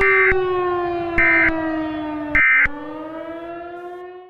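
A warning siren's steady tone slowly falls in pitch, breaks off briefly and then rises again. Three short, higher beeps come about a second apart over it, and the sound cuts off abruptly at the end.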